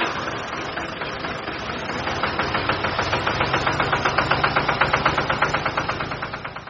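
Small engine chugging with a fast, even knock of about ten beats a second over a low hum, as the red mini tractor model pulls the water tanker; it fades out near the end.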